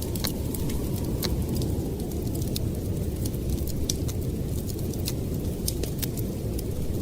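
Blizzard wind blowing in a steady low rush, with a wood fire crackling over it in scattered, irregular sharp pops.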